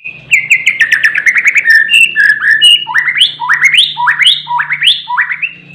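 Murai (Copsychus songbird) singing loudly: a fast run of short repeated chirps, then a series of about five clear whistles, each sweeping sharply upward.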